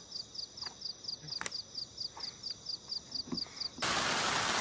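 Rhythmic high-pitched chirping, about four pulses a second, from a calling creature, with a click about one and a half seconds in. A little before the end it is suddenly replaced by a loud, steady rushing noise.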